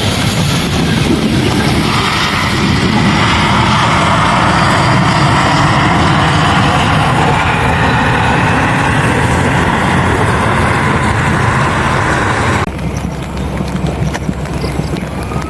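Airliner passing close by: a loud, steady rush of engine noise that cuts off abruptly about 13 seconds in, giving way to quieter wind noise.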